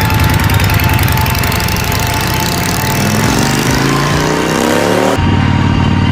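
A vehicle engine running under load. About halfway in, its pitch climbs steadily for about two seconds, then drops abruptly as it shifts up a gear and settles back into a steady drone.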